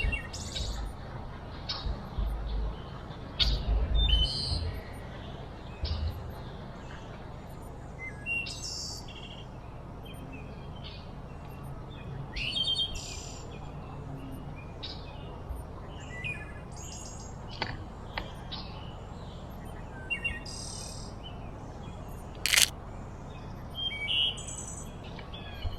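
Songbirds chirping and calling on and off, short high notes scattered over a steady outdoor background noise. Low rumbling bumps come in the first few seconds, and a single sharp click sounds near the end.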